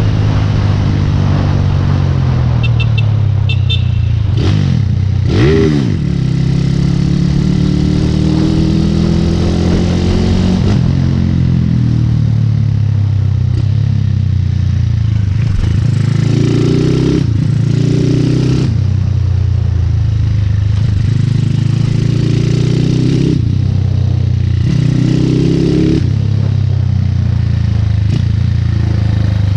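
Motorcycle engine running while being ridden, its pitch rising and falling repeatedly as it revs up and eases off through the gears, with a quick sharp rev and drop about five seconds in.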